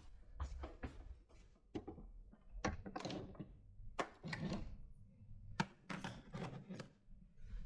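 Irregular knocks, taps and clatter of objects being handled, about a dozen sharp hits, some with a short rustle after them.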